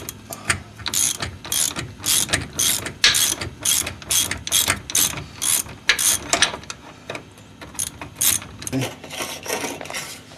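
Ratchet wrench clicking in short repeated strokes, about two a second, while undoing the 17 mm bolt that holds the steering damper; the strokes thin out near the end.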